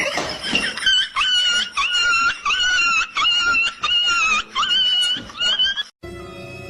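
A pet animal calling about nine times in a rapid series, each call short and high-pitched, followed by a sudden cut to music near the end.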